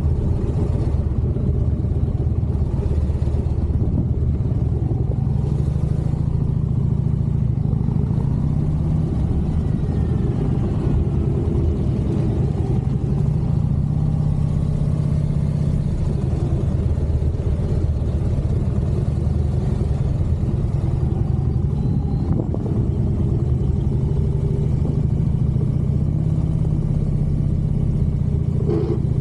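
Harley-Davidson motorcycle's V-twin engine running steadily, a low, even engine note with only slight changes in pitch.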